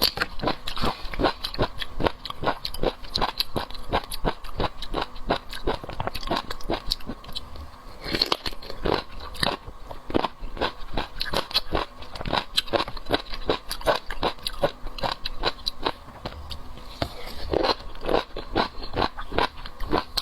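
Close-miked chewing and biting of seafood, a steady run of wet clicks at about three a second, with two short lulls.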